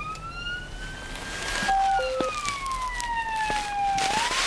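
Police car siren wailing slowly: the pitch rises through the first second and a half or so, falls gradually over the next two and a half seconds, and starts rising again near the end. Two short beeps at different pitches sound about two seconds in.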